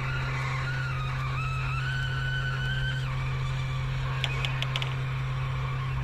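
A steady low electrical hum, with a quick run of light clicks a little past four seconds in as the small tools fit the fuse onto the board.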